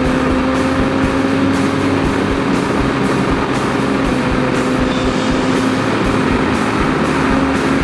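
BMW S1000RR inline-four motorcycle engine holding a steady cruise, with heavy wind rush over the helmet microphone.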